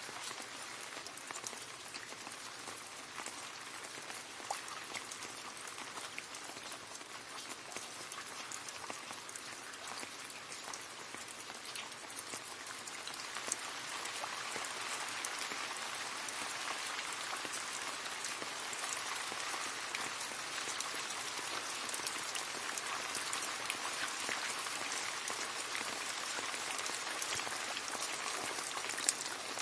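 Steady rain falling and splashing into a puddle, a dense patter of individual drops over an even hiss. The rain grows a little heavier about halfway through.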